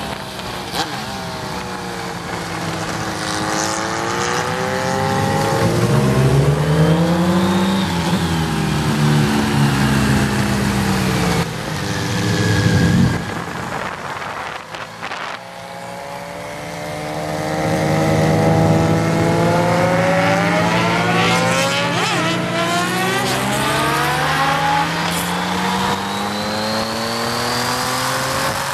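1988 BMW K75 motorcycle's three-cylinder engine accelerating at speed, with wind rush. The engine note climbs, eases back, dips briefly about halfway through, then climbs steadily again over the last ten seconds.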